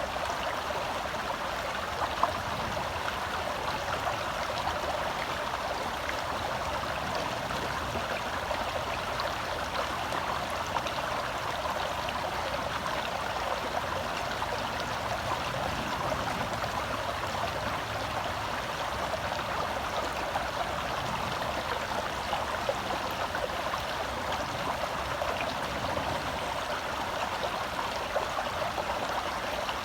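Shallow forest stream flowing steadily over rocks, a continuous babbling rush of water.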